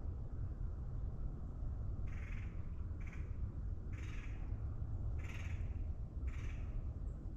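A bird calling five times, about once a second, over a steady low rumble.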